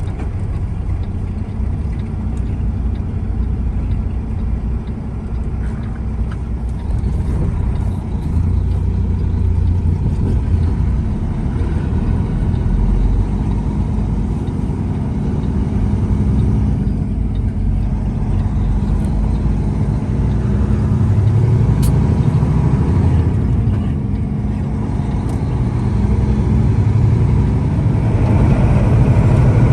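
Truck driving: steady low engine and road rumble, a little louder near the end.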